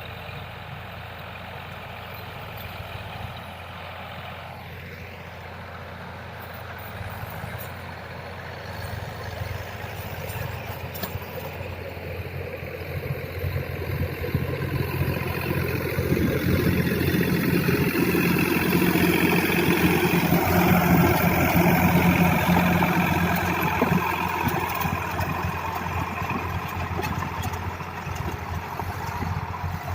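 Diesel tractor engine running under load with a rotary tiller. It grows steadily louder over the first two-thirds, then eases off a little.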